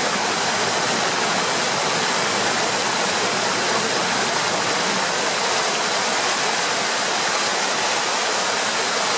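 Running water rushing steadily, with no change in level.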